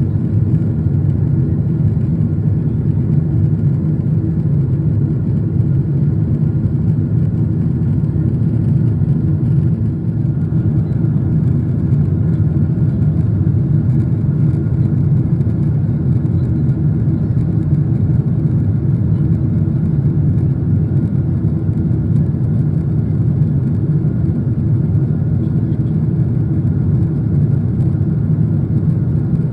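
Airplane cabin noise in flight: a loud, steady, low drone of the engines and rushing air.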